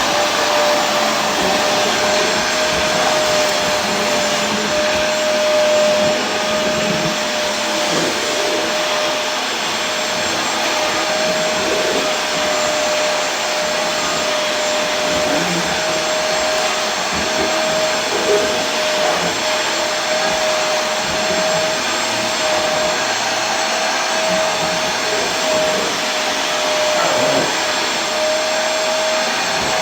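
Vacuum cleaner running steadily: an even motor hiss with a constant whine.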